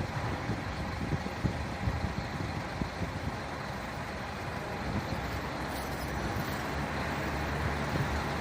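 Motor vehicle engine running with steady road-traffic rumble.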